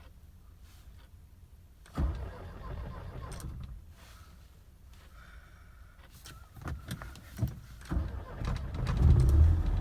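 Mercedes-Benz M115 four-cylinder petrol engine being cold-started: a short burst of cranking and firing about two seconds in, a few sharp clicks later, then the engine catches and runs, loudest near the end.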